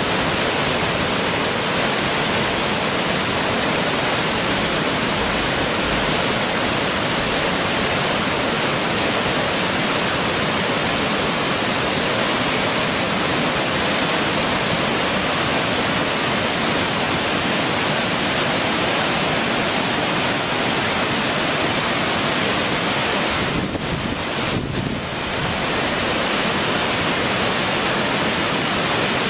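A steady, loud, even rushing noise across all pitches, with no distinct birdsong standing out; it dips briefly near the end.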